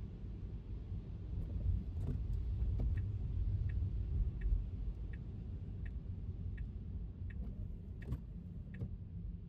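Steady low road rumble from a car driving, with a turn-signal indicator ticking evenly, about three ticks every two seconds, starting about three seconds in.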